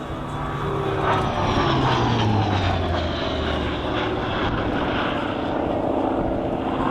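Hawker Sea Fury's Bristol Centaurus 18-cylinder radial engine and propeller running loud as the aircraft flies past. Its pitch falls during the first few seconds, then settles into a steady drone.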